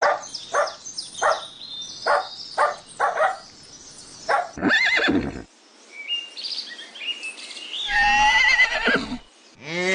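Horse sound effects: a run of hoof clops for the first few seconds, then a short neigh about halfway, and a long, trembling whinny near the end. Faint bird chirps sit between the two calls.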